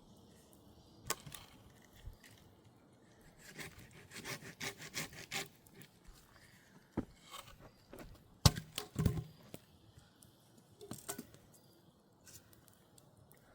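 Wood being handled and worked by hand: a run of short scraping strokes, then a sharp knock with a brief cluster of knocks after it, and a few lighter clicks near the end.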